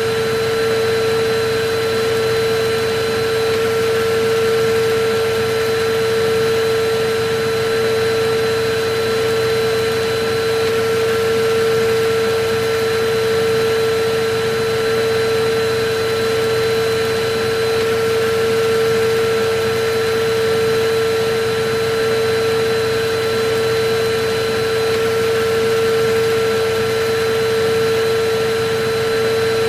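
Electric vacuum cleaner running steadily: an even rush of air under a constant motor whine.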